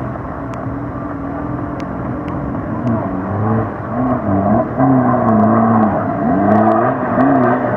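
Off-road vehicle's 1.9 TDI diesel engine revving up and down again and again under load, louder in the second half, with a few sharp clicks over it.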